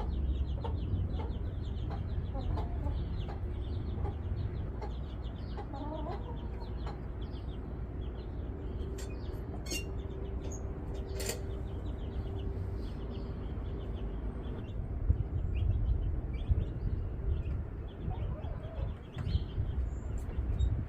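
Chickens clucking in a backyard run over a low rumble. A steady hum runs for several seconds midway.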